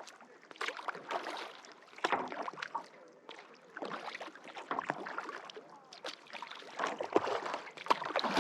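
Kayak paddle strokes in lake water, a splash and trickle of water with each stroke about every second and a half.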